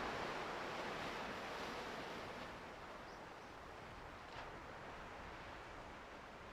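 Ocean surf: a steady wash of breaking waves, slowly fading out.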